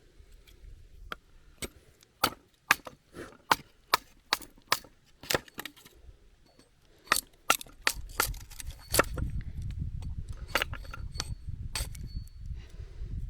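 Wood being split into kindling splints: a series of sharp, irregular cracks and knocks. A low rumble comes in under them about two-thirds of the way through.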